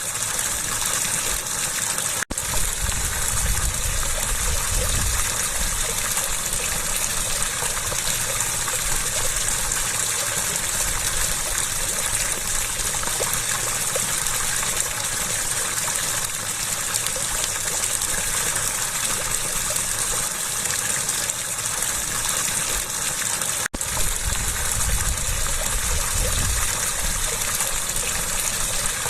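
Water gushing steadily, a continuous even rush. The sound drops out for an instant twice, about two seconds in and again some twenty seconds later.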